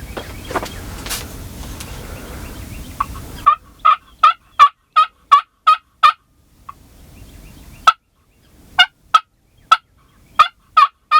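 Turkey yelping: a run of short, sharp yelps about three a second begins about a third of the way in, breaks off for a couple of seconds with one lone yelp, then starts again near the end.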